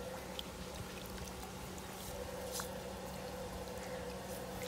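Water trickling and pouring quietly, with a steady low hum underneath and a few faint clicks.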